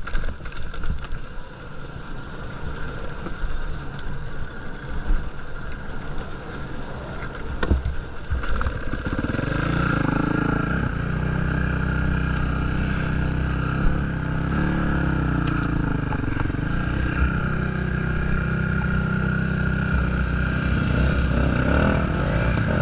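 Dirt bike engine, faint and rough at first, then running steadily and close from about ten seconds in.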